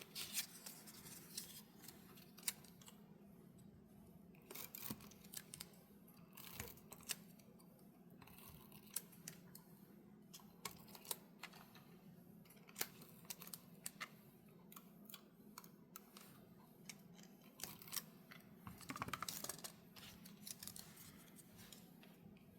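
Faint handling of paper and tape: scattered light clicks and short rustles, with a longer rustle a few seconds before the end.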